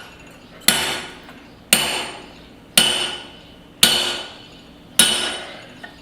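Hand hammer striking steel at the anvil, five evenly spaced blows about one a second, each with a bright metallic ring that fades before the next: driving a punch through the eye of a small hammer head.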